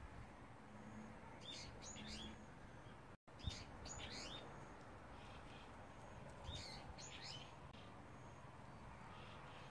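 Faint chirping of small wild birds: quick clusters of three or four short, high, falling notes every couple of seconds. The sound drops out for an instant about a third of the way in.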